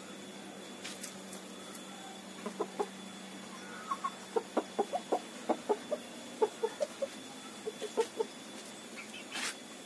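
Chickens clucking in runs of short, low clucks, several a second, mostly from about four seconds in. There is a sharp click about a second in and another near the end.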